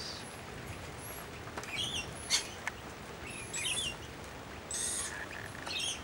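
Wild birds in a garden tree giving several short, high-pitched calls and chirps, spaced irregularly through the few seconds.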